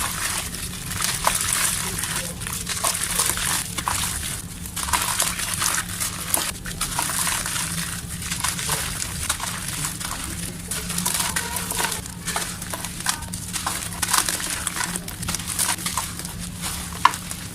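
Chunks of dry, dusty mud being snapped and crumbled by hand: a steady gritty crackle dense with small sharp snaps.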